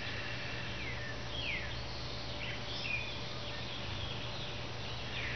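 Wild birds chirping, several short calls that slide down in pitch, over a steady low background hum.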